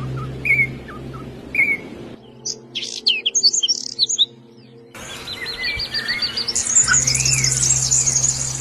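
Small songbirds chirping and singing, the sound changing abruptly about two and five seconds in. First come single short chirps about once a second, then a burst of quick high chirps, then a fast run of falling notes and a long high trill. A steady low hum runs underneath much of it.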